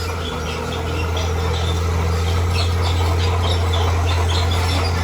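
Heavy earthmoving machine's engine running with a steady low drone, a little louder about a second in, with birds chirping over it.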